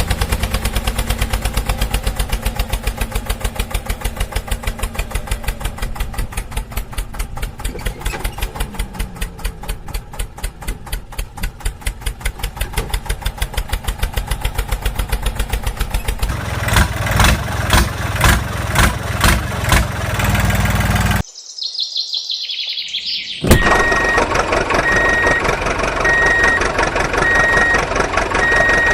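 Vehicle engine sounds: a fast, even chugging that turns slower and louder about two-thirds of the way through, then stops abruptly. After the cut comes a falling whoosh, then a steady engine sound with bird chirps and an on-off beep.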